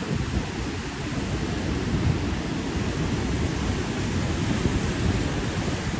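Ocean surf: waves breaking and washing in a steady low rumble, which swells louder at the start.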